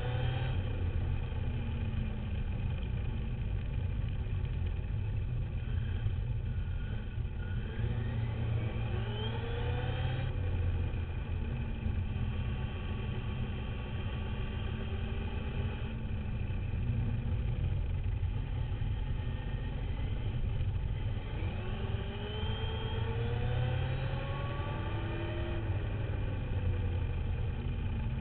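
RC dirt bike's motor and drivetrain whining, rising in pitch as it speeds up and falling as it slows, several times over, under a steady low rumble. Heard from a camera mounted on the bike.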